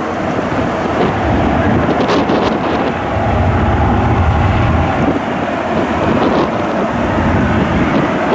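Wind buffeting the microphone over the steady rush of jet engine noise, with the low rumble heaviest in the middle.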